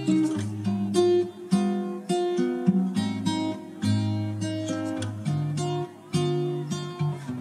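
Background music: acoustic guitar, plucked and strummed, with chords changing about every half second.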